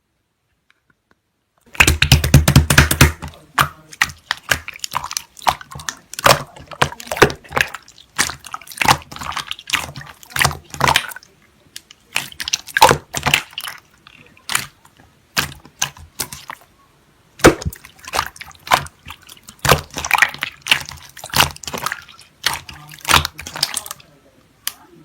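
Slime being squished and stretched by hand, making a run of sticky wet clicks and pops. It starts about two seconds in, densest at first, then comes in irregular clusters.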